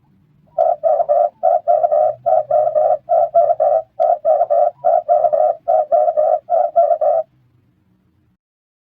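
Red turtle dove cooing: a fast run of short, pitched coos, about three a second, lasting some six seconds before it stops.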